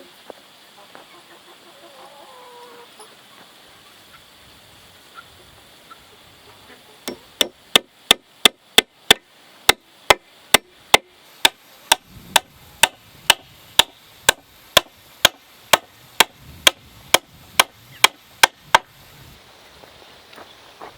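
Chickens cluck faintly, then about a third of the way in a long, even run of sharp blows of a tool on wood begins, about two and a half strikes a second, stopping shortly before the end.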